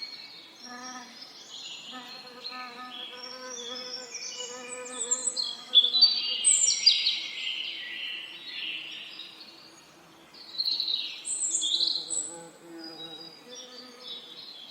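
Several songbirds singing, with quick chirps and trills, loudest in a burst about six seconds in and again around eleven seconds. Underneath, bees buzz with a low hum that comes and goes.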